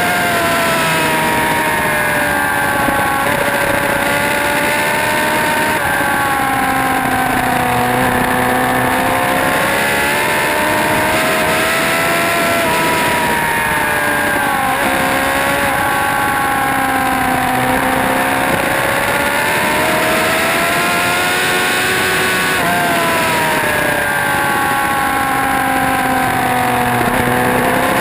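Motorcycle engine on a racetrack, its pitch climbing under acceleration and dropping under braking and downshifts, again and again every several seconds, over a constant rush of wind noise.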